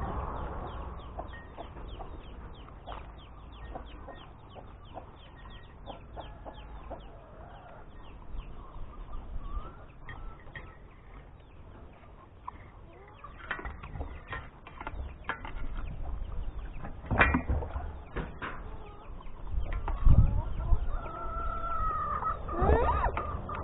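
Chickens clucking, among many scattered light clicks and knocks, with a few louder thumps in the second half.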